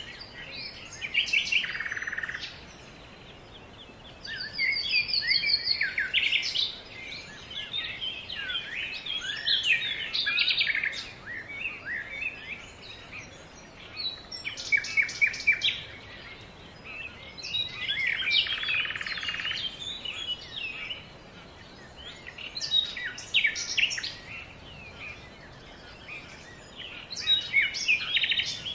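Several birds chirping and singing: many short, high calls and quick trills in bursts a few seconds apart, with brief lulls between.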